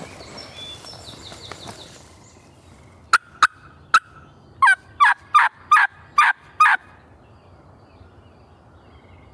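A turkey call giving three short, sharp clucks and then a run of six loud yelps, each note dropping in pitch, imitating a hen to draw a gobbler toward the hunters.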